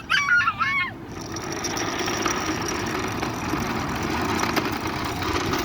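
A motor running steadily, after a brief high, wavering voice in the first second.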